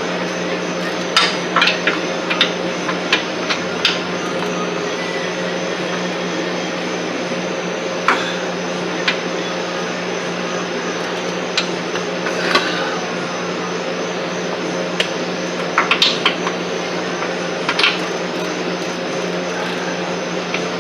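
Hand tools clinking and tapping against metal in scattered clusters, the sound of wrenches and sockets at work on motor mount bolts, over a steady hum.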